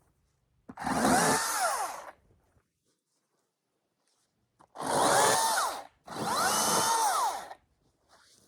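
Milwaukee battery top-handle chainsaw cutting in three trigger bursts. Each time its motor whines up, holds, then winds down to silence, with no idle between bursts.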